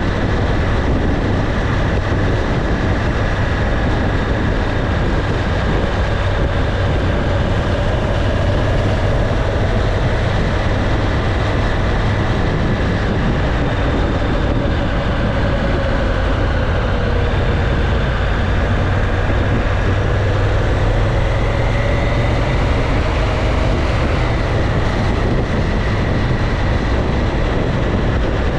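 Motorcycle engine running at a steady cruise with heavy wind rush on the microphone; the engine note drifts slowly up and down.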